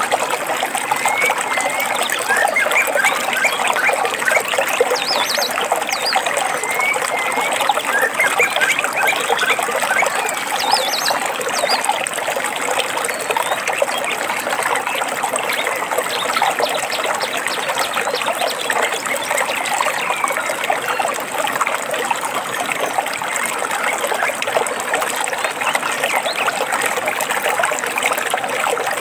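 Small stream trickling and splashing steadily, with birds chirping and whistling over it, mostly in the first half.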